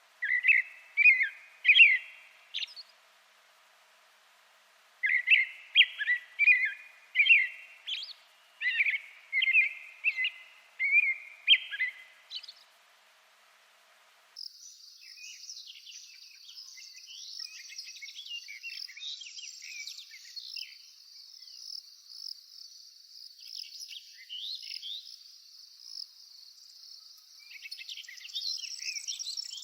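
A songbird singing clear whistled notes, about one and a half a second, in two runs. Partway through, the sound cuts to a steady high insect drone with other birds chirping over it.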